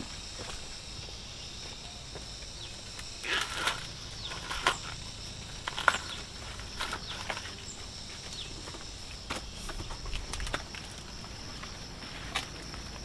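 Steady high-pitched insect buzz, with about ten short, irregular rustles and crackles scattered through it.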